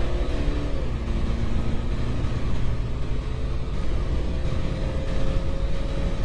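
BMW 3 Series (E90-generation) turbodiesel car accelerating hard. The engine note climbs, drops at a gear change about a second in, then climbs again, over heavy low road and wind rumble.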